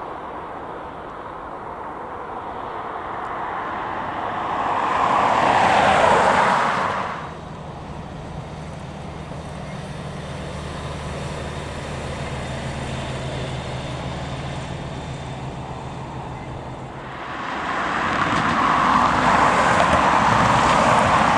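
Engine noise that swells to a peak about six seconds in and drops away abruptly a second later, leaving a steady low engine hum, then swells again near the end.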